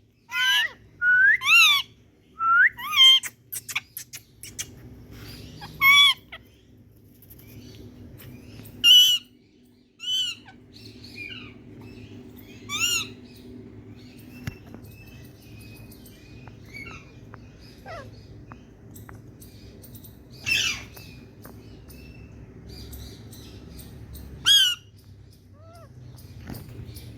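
Indian ringneck parakeets giving shrill, squawking calls: a quick run of calls in the first few seconds, then single calls every few seconds.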